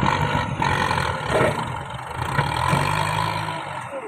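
A tractor engine running steadily under load while it pushes at tree stumps, with a few knocks and scrapes over it.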